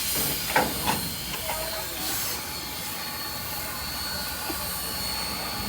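Steam locomotive hissing steadily as it vents steam, with a few sharp knocks in the first second.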